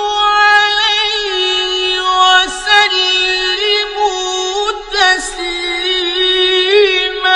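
A sheikh's solo chanted recitation: one voice holding long notes with wavering ornaments, with short breaks for breath about two and a half and five seconds in.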